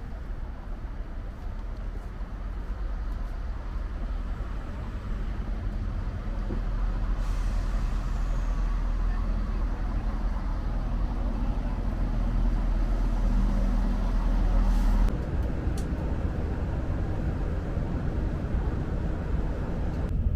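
Diesel multiple-unit train running with a steady low engine drone that slowly grows louder; about fifteen seconds in the deepest part of the drone drops away and the sound shifts.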